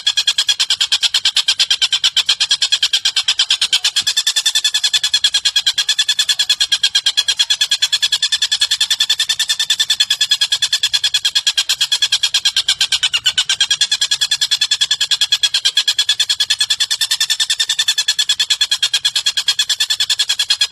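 Recorded bird call used as a master track for training cage birds: a fast, even rattle of rapid repeated notes that goes on without a break.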